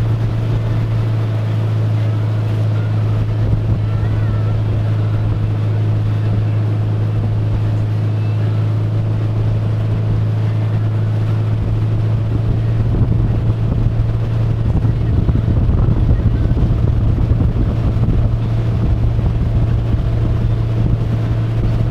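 Motorboat engine running at a steady speed, a constant drone, with wind buffeting the microphone more strongly in the second half.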